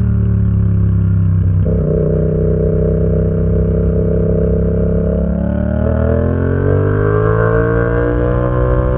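Yamaha XSR700's 689 cc parallel-twin engine running through an aftermarket SC Project exhaust while being ridden. The revs fall, jump up suddenly about a second and a half in, hold steady, then rise smoothly as it accelerates near the end.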